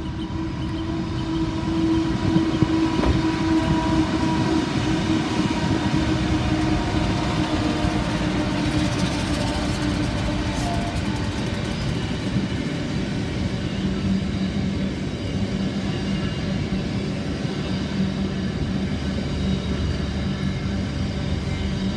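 Freight train hauled by NR class diesel-electric locomotives running past, with steady engine drone and wheel-on-rail noise. A higher engine note dies away about halfway through, and a lower one comes up for the last third.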